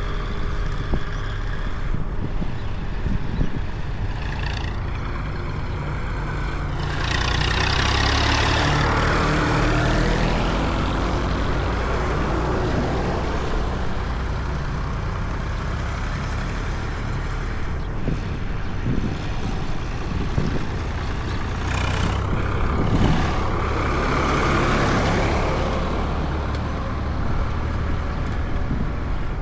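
Diesel tractor engines running steadily, with two louder swells of engine noise, about a quarter and about three quarters of the way through.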